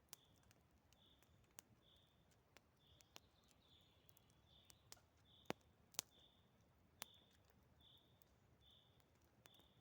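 A bird's short high call, faint and repeated evenly about one and a half times a second. Scattered sharp clicks sound over it, the loudest a few around the middle.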